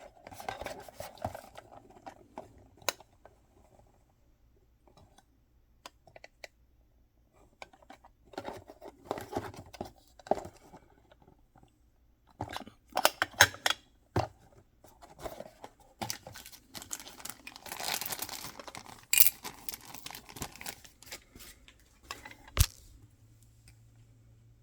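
Hands opening blind-box packaging: bursts of crinkling and tearing wrappers, broken by a few sharp clicks or taps, the loudest of them about 22 seconds in.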